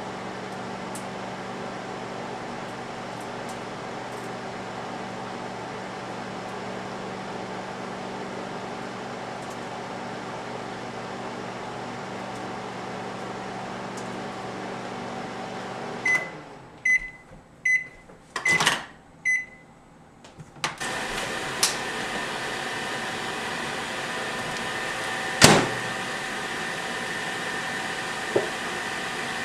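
Microwave oven running with a steady hum, which stops about 16 seconds in, followed by several short high beeps and a click. About 21 seconds in, a steady hissing rush starts, with a few sharp clicks over it.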